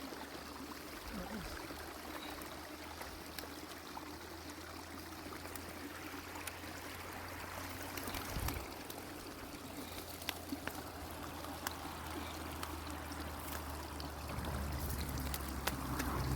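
Spring water running and trickling steadily, with a few faint clicks; a low rumble grows louder near the end.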